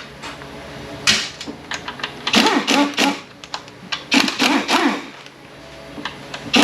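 Ratchet wrench clicking in several short bursts as bolts are run out of an automatic transmission case.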